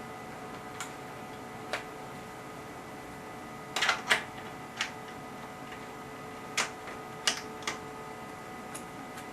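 Irregular sharp clicks, about eight, with a quick cluster about four seconds in, from operating bench test instruments, over a faint steady electronic tone.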